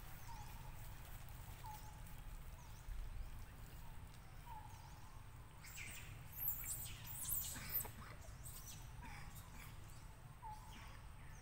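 Birds chirping over steady background noise: short chirps repeat every second or two, with a louder flurry of high calls about six to eight seconds in.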